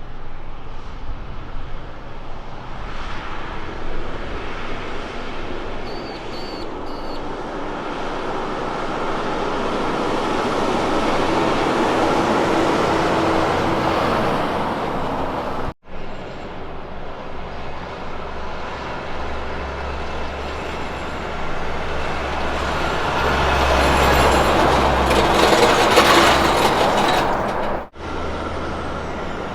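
Road trains driving past: diesel engine and the rumble of many trailer tyres. The sound swells to a peak and eases off, and breaks off suddenly twice between passes.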